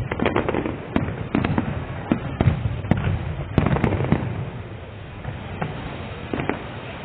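Fireworks display: a quick run of bangs and crackling reports, thinning to a few scattered bangs after about four seconds.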